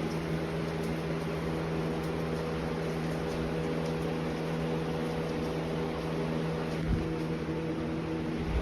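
A steady mechanical hum over a constant hiss, like a motor or fan running, with a couple of soft low thumps near the end.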